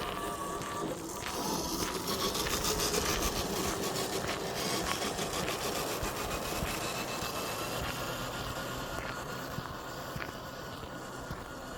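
FMS FJ40 RC crawler's electric motor and gearbox whining, the pitch rising slowly, while its tyres crunch and scrape over twigs and forest litter with many small clicks.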